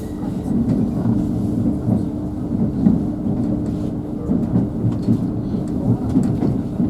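Interior rumble of a Hitachi Class 800 bi-mode train under way, heard from the passenger saloon: a continuous low rumble of wheels on track with a steady low hum. On this unelectrified line the hum comes from the train's underfloor diesel generator sets.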